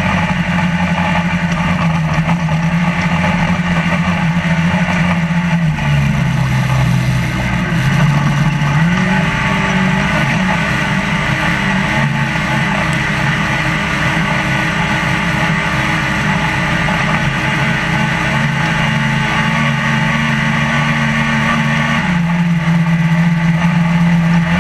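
Trophylite desert race truck's engine heard from inside the cab, running steadily. It drops in pitch about six seconds in, climbs back up a few seconds later, and settles to a steady lower note near the end.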